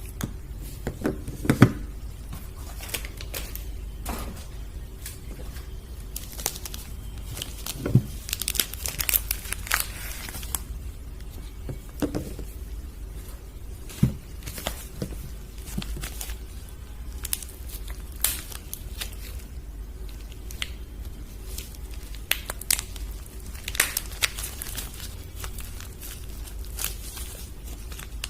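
Soap wrappers being torn open and crinkled by hand, in irregular crackly bursts. There are a few soft knocks as the bars are handled.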